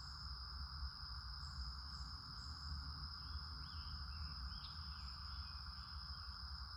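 Insects trilling steadily in a continuous high, pulsing chorus, with a few short bird chirps in the middle, over a low rumble.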